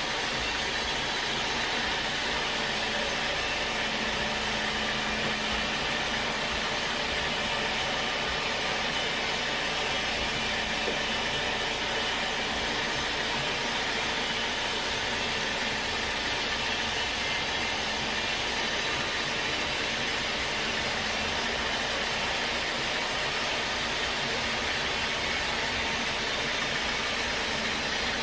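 Sawmill machinery running steadily: a continuous, even machine noise with a faint hum.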